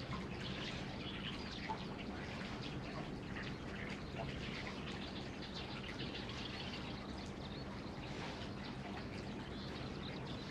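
Scattered short bird calls over a steady low background hum.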